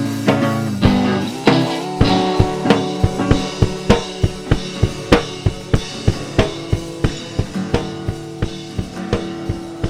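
Rock band music: a drum kit playing a steady beat of about three to four hits a second, over sustained guitar and bass notes.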